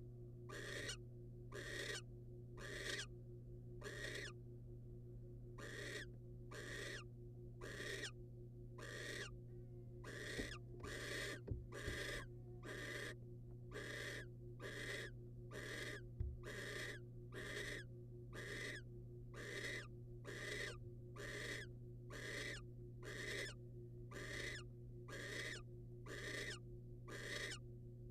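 Barn owl giving its hissing, snore-like food-begging call over and over, about once a second, with a couple of brief pauses. A steady low hum runs underneath, and a few sharp knocks come near the middle.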